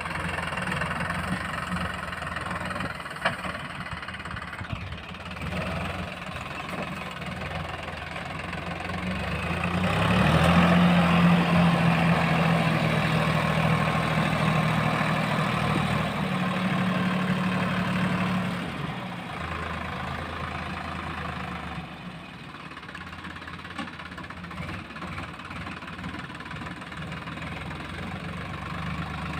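Heavy diesel engine running at a steady idle, picking up revs and getting louder from about ten seconds in for roughly eight seconds, then settling back to idle.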